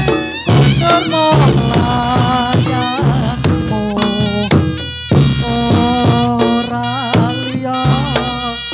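Reog Ponorogo ensemble music: a reedy wind melody, typical of the slompret shawm, wavering and bending in pitch over steady drum strokes.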